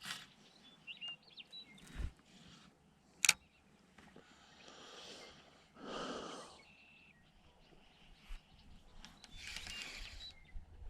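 Outdoor riverside ambience with faint bird chirps, scattered light clicks and a few brief swishing sounds; a single sharp click about three seconds in is the loudest sound.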